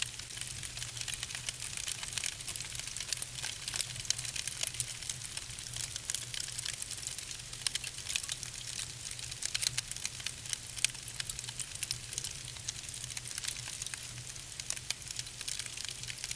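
Wood fire burning in a fireplace: logs crackling with many small, sharp pops over a steady hiss, and a faint steady low hum beneath.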